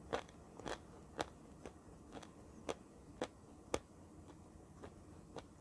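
Close-up chewing of dry edible clay: crisp crunches about twice a second, growing softer near the end.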